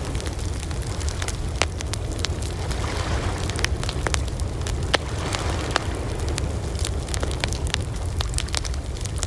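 Wood campfire crackling, with frequent sharp pops over a low steady rumble.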